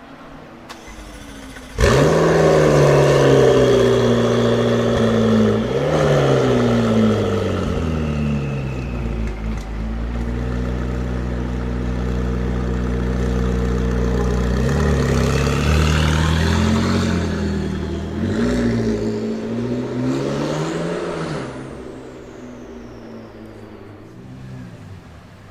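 Sports car engine that comes in suddenly and loudly about two seconds in, revs up and down a few times, holds a steady idle, then blips again before dropping away.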